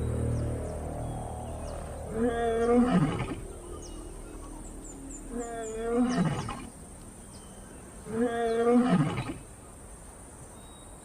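A lion roaring at night: three loud, drawn-out calls about three seconds apart, each ending in a drop in pitch.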